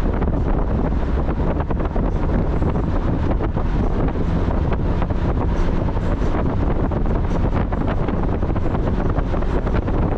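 Steady wind buffeting the microphone over the engine and road noise of a Mazda Miata on the move.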